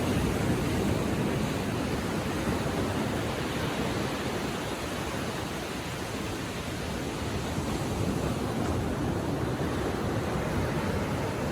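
Small ocean waves lapping on the shore, a steady rush of surf that eases slightly mid-way and builds again near the end.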